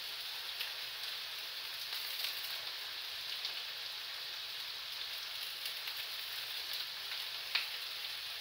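Potatoes and sausages sizzling in frying pans: a steady sizzle with light crackles, and one sharper pop near the end.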